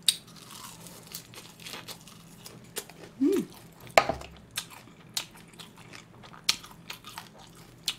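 Close-up chewing of crisp salad greens: wet crunching with many small mouth clicks, a brief hummed "mm" a little past three seconds in, and a sharp click about a second later.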